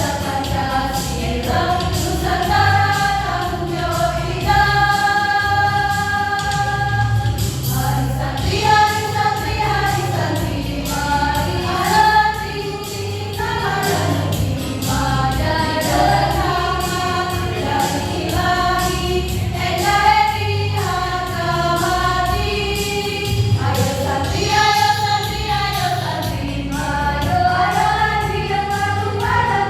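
Choir singing a march song together, with long held notes and phrases that rise and fall, over continuous low instrumental accompaniment.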